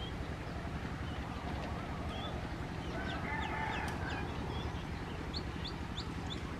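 Birds chirping: a run of short, high chirps about three seconds in and another near the end, over a steady low rumble.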